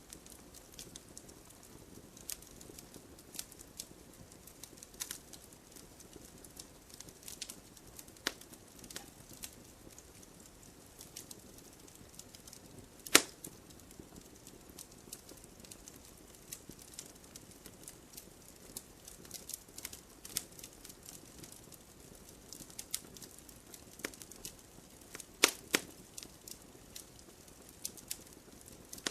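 Wood fire crackling in a fireplace: a soft steady hiss of burning logs with irregular sharp pops and snaps, one louder pop about halfway through and a few close together near the end.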